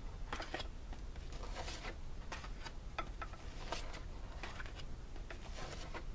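Irregular short rustles and scrapes of paper and card being handled and slid over one another, as craft project sheets are leafed through.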